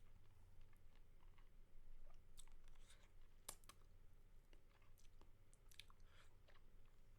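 Faint wet mouth clicks and smacks from licking and sucking on a lollipop, close to the microphone, coming at irregular intervals with a few sharper clicks among them.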